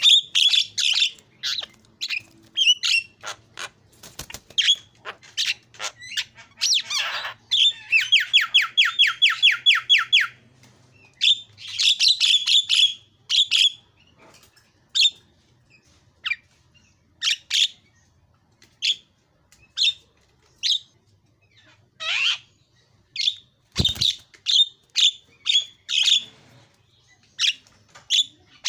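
A Javan myna calling in a long, varied series of short, sharp squawks and chirps. About eight seconds in it gives a fast rattling trill of around ten notes a second that lasts about two seconds, and there are a few falling whistled sweeps.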